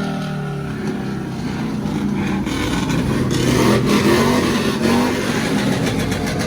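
A vehicle engine running and revving, its pitch wavering and loudest about four seconds in.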